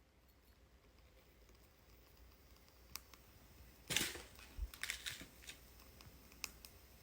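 Light clicks and a short clatter of small hookah charcoal tablets being handled and set down into a container, the loudest clatter about four seconds in.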